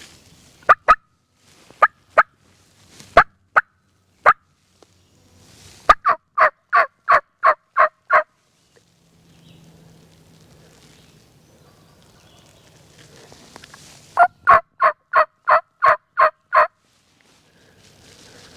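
Turkey call worked close by, imitating a hen: a few scattered single clucks, then two runs of about eight evenly spaced yelps each, sounded to bring in gobblers.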